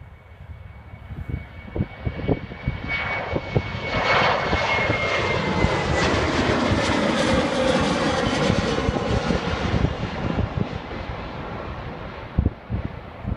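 Boeing 737 jet on its takeoff run passing by: engine noise swells to a loud peak over several seconds and then eases off, its high whine sliding lower as it goes past. Wind buffets the microphone throughout.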